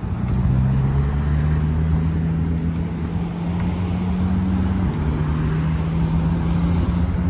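A car engine running at steady low revs, a deep even hum, with a small shift in pitch about five seconds in.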